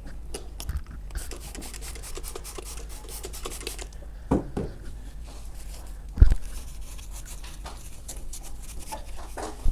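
Glass door of a wood-burning stove-fireplace being rubbed clean with a cleaning wipe: a run of short scratchy wiping strokes. Two dull knocks come about four and six seconds in, the second the louder.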